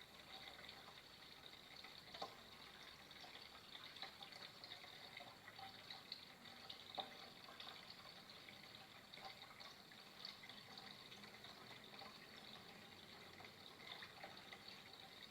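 Faint flowing water trickling steadily, with a few small drips or plops, the clearest about two seconds and seven seconds in.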